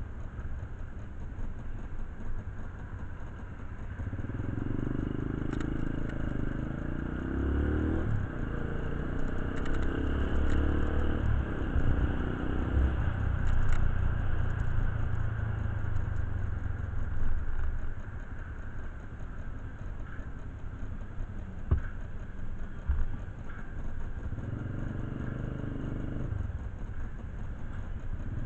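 A motorcycle engine running, louder for about fourteen seconds from about four seconds in and again briefly near the end, with scattered light metallic clicks and clatter.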